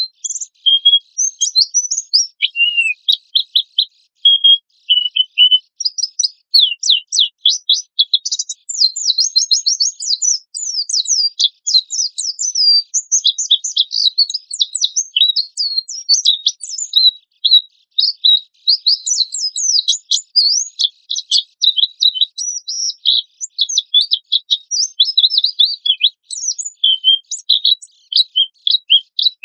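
White-eye (pleci) singing a fast, harsh, nearly unbroken run of high chirps and quick rising and falling notes, growing denser partway through.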